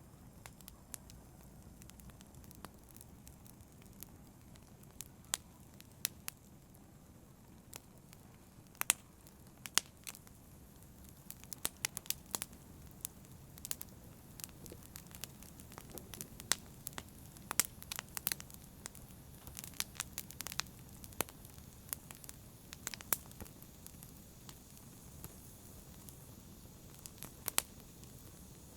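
Campfire burning: irregular sharp crackles and pops over a low, steady rush of flame, the crackles coming thickest through the middle.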